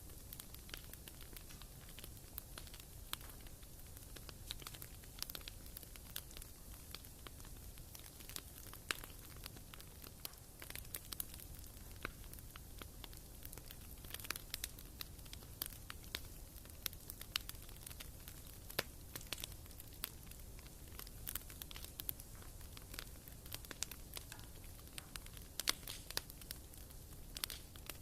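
Firewood burning in a fireplace, crackling with irregular sharp snaps and pops, several a second.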